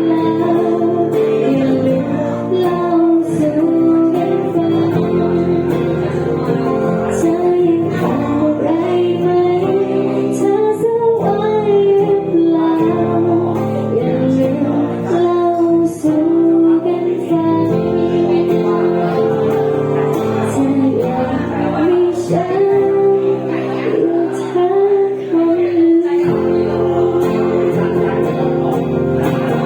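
Song: a woman singing a melody over guitar accompaniment.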